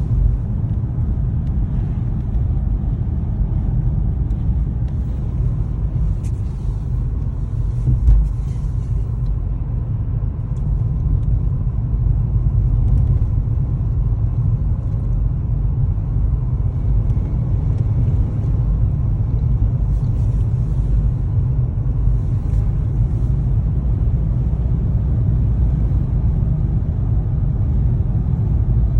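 Car driving on a snowy road, heard from inside the cabin: a steady low rumble of tyres and engine, with one brief bump about eight seconds in.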